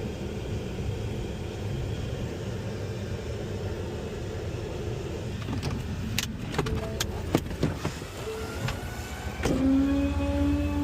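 Small rear-loader garbage truck running, a steady low rumble at first. Several sharp clicks and knocks follow, then about nine and a half seconds in a louder steady hum with overtones comes on and holds.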